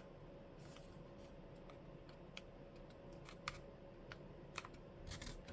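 Faint, scattered crinkles and ticks of a sheet of paper being folded and creased by hand.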